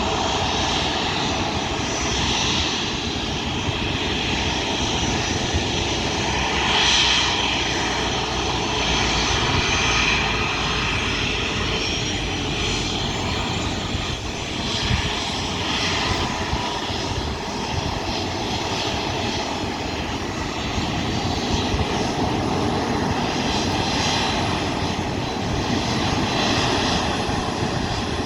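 Jet engines of a Boeing 737-300F freighter, CFM56-3 turbofans, running steadily. A faint high whine slowly falls in pitch near the middle.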